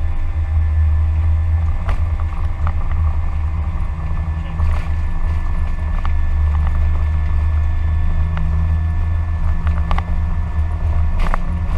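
Airbus A320 flight-deck noise: a steady low rumble with several constant tones over it and a few short clicks and ticks.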